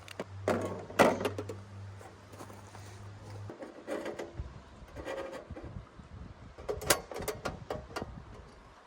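Scattered clicks and knocks of the parts of a portable wood-burning stove being handled and fitted together. A low steady hum runs under the first few seconds and stops.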